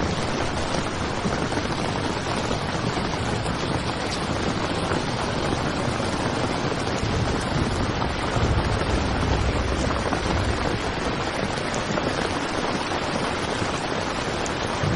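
Heavy rain pelting a tent fabric in a steady dense hiss, with a low rumble swelling briefly about halfway through.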